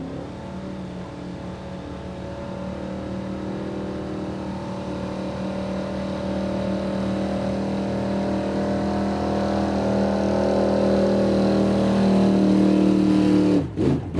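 Old square-body Ford pickup's engine held at high, steady revs under load while pulling the sled, growing louder as the run goes on, then cut off abruptly near the end.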